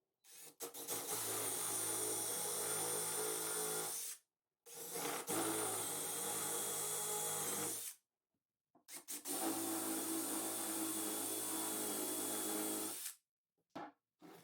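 An electric power tool running steadily in three bursts of about four seconds each, separated by short pauses. The first and last runs start with a few quick stutters before reaching full speed, and a few short clicks follow near the end.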